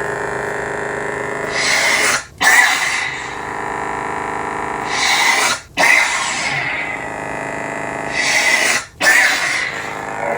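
Lightsaber sound font played through a custom saber's soundboard: a steady buzzing hum. Three times it swells, cuts out briefly for a retraction and comes back with a loud re-ignition.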